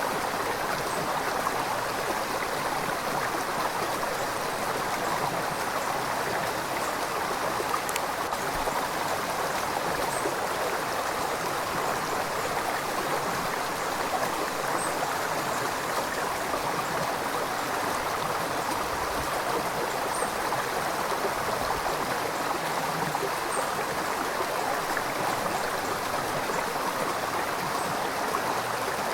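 River water flowing, a steady rushing and babbling with no change in level.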